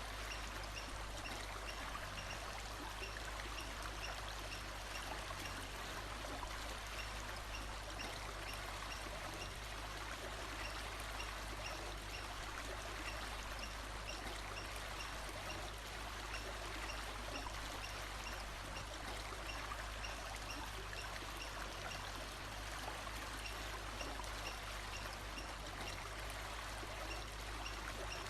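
Running water of a stream, a steady even rush, with faint short high chirps repeating at a regular pace behind it.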